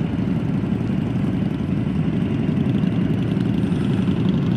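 Harley-Davidson Low Rider S Milwaukee-Eight V-twin engine running steadily at low revs, with no revving.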